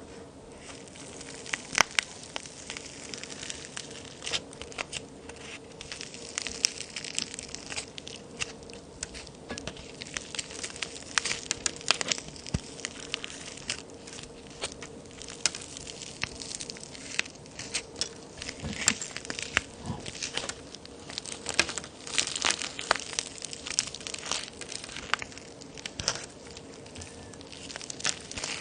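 Handmade plaster-and-clay toy cookies being broken apart, with irregular dry cracks, snaps and crunches coming in quick clusters. A faint steady hum runs underneath.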